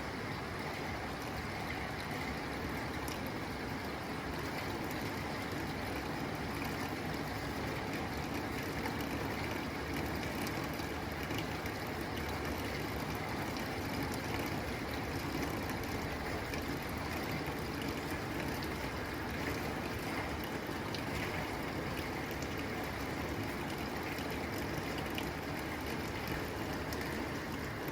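Steady rain falling on a tin roof: a continuous hiss dense with small ticks of drops striking the metal.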